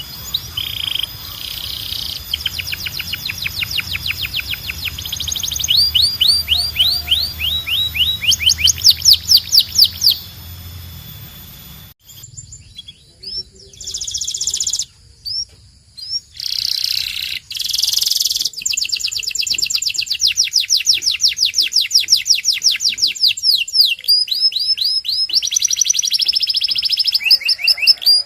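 Domestic canary singing a long, continuous song of rapid trills and repeated sweeping chirps, loudest about ten seconds in. A low hum underneath stops abruptly about twelve seconds in.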